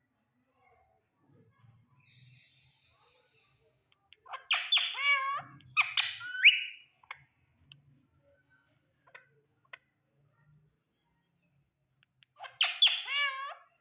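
Indian ringneck parakeet giving loud, harsh squawking calls in two bursts, the first about halfway in and the second near the end, with softer chatter before them and a few faint clicks between.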